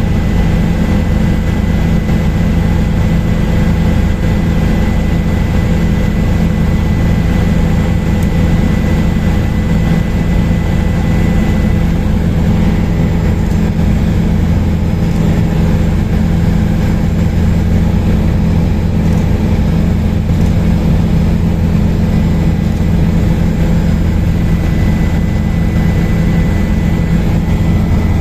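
Helicopter in flight: a steady, loud drone of rotor and turbine engine, with a thin high whine on top.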